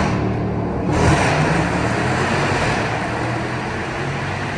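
Jeep Grand Cherokee Trackhawk's supercharged 6.2-litre V8 under hard acceleration in a full-throttle pull. It is loudest about a second in, then eases off gradually.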